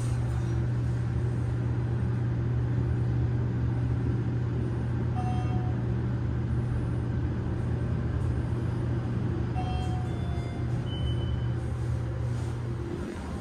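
KONE passenger elevator car travelling between floors: a steady low hum and rumble. A few faint short tones sound about five seconds in and again around ten seconds in.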